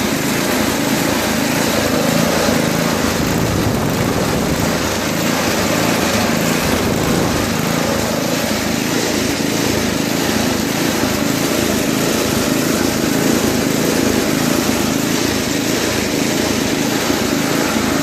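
Toro 521 snowblower's Tecumseh engine running steadily with a freshly cleaned carburetor.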